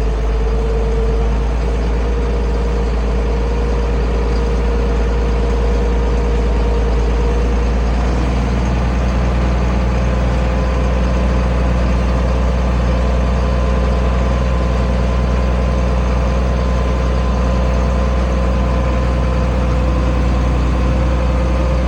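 International 1566 tractor's turbocharged six-cylinder diesel running steadily under load while pulling a field cultivator, a steady high whine over the engine drone.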